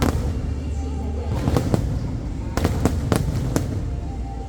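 Aerial fireworks bursting: a string of sharp bangs over a continuous low rumble, with a quick cluster of reports in the second half. Show music plays underneath.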